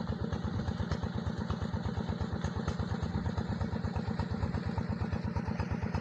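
Diesel engine running steadily at an even speed, its firing heard as a rapid, regular pulsing of about eight or nine beats a second.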